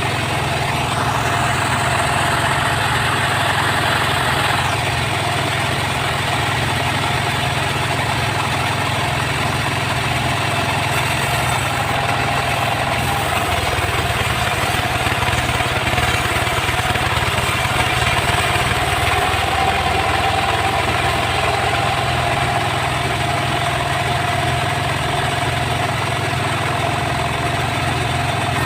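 Engine-driven sawmill running steadily with a constant engine hum. A higher whine rises in about a second in and lasts a few seconds.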